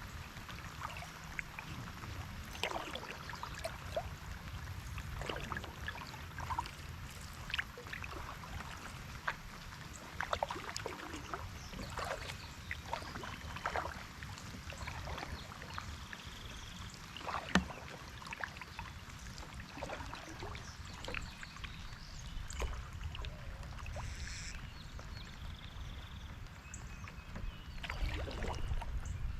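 Kayak paddling on a lake: irregular small splashes and drips of water from the paddle, over a low steady rumble.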